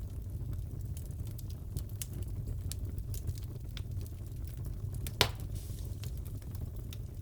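Crackling wood fire in a fireplace: a steady low rumble with scattered small crackles and one loud pop about five seconds in.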